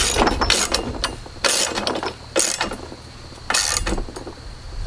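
Ratchet wrench clicking in four short bursts as nuts on a chainsaw mill's log-dog bracket are tightened.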